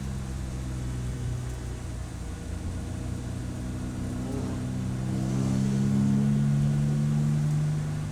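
Race car engine running under steady load. Its note eases slightly, then climbs and grows louder about five seconds in, and drops back just before the end.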